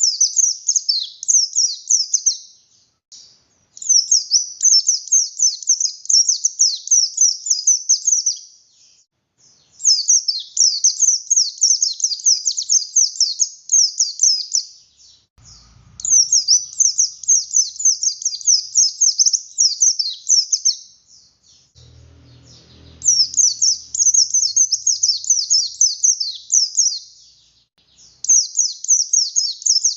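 A pleci buxtoni white-eye singing loudly. It gives rapid, high twittering phrases in long bursts of several seconds, with short pauses between them. This is the vigorous full song that keepers call 'gacor'.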